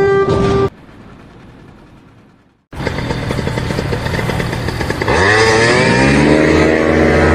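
A vehicle horn sounding, cut off under a second in; after a short quiet gap, an engine runs and from about five seconds in revs up to a higher, steady pitch.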